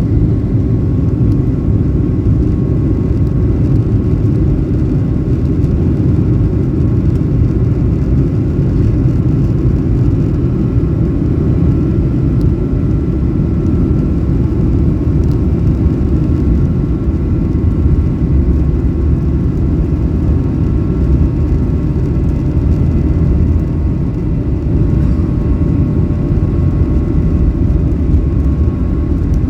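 Cabin noise inside a Boeing 737-800 airliner: a steady, loud, even rumble from the CFM56 engines and airflow, with a faint steady whine above it.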